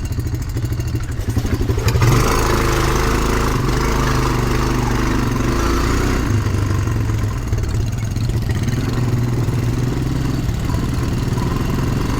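ATV engine running as the quad is ridden along a trail, getting louder as the throttle opens about two seconds in and then holding steady.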